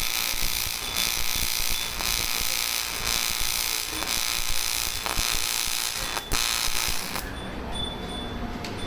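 AC TIG welding arc on aluminium, a steady hiss that stops suddenly about seven seconds in as the arc is broken.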